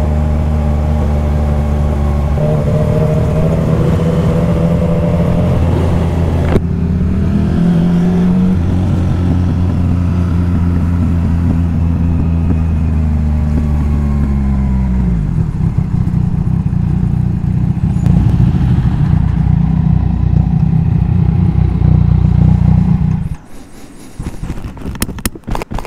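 A motorcycle's three-cylinder engine running at low speed under light throttle: the Yamaha MT-09's 847 cc triple, heard from the rider's seat. Its pitch steps a few times and falls away as the bike slows. About 23 seconds in the engine sound cuts off, followed by a few clatters.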